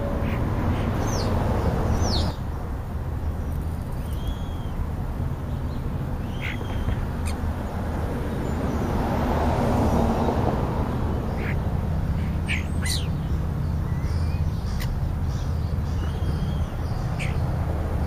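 Wild birds calling in the background, a scatter of short chirps and calls, over a steady low outdoor rumble that swells for a moment about nine to ten seconds in.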